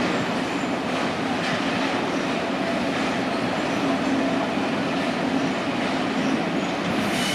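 A train running past on the line: a steady rumble of wheels on rail with a few faint clicks.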